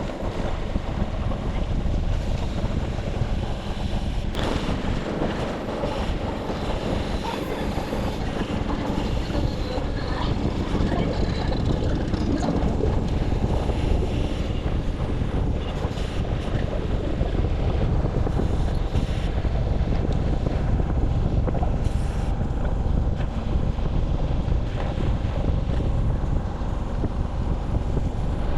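Steady wind rush on the microphone over a low rumble of rolling movement, as on a ride.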